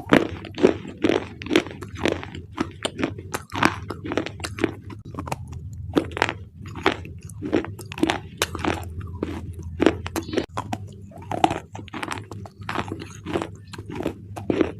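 Thick black slate bars being bitten and chewed close to the microphone: a steady run of crisp, dry crunches, about two a second, over a faint low hum.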